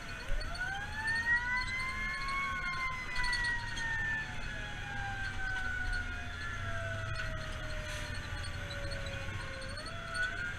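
Fire engine siren wailing: the pitch rises over about two seconds, falls slowly for about seven seconds, then rises again near the end, with overlapping tones, over a low steady engine rumble.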